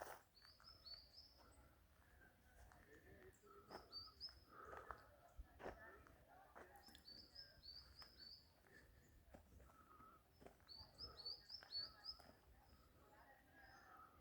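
Faint bird song: a small songbird repeats a short phrase of three or four quick high notes about every three seconds, with a few soft clicks in between.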